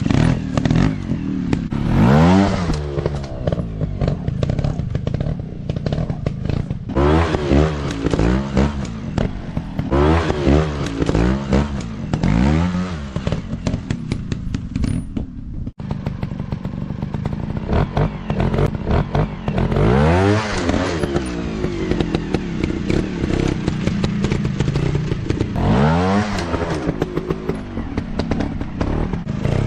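Motocross dirt bike engines revving hard in repeated bursts, the pitch climbing sharply and falling back every few seconds.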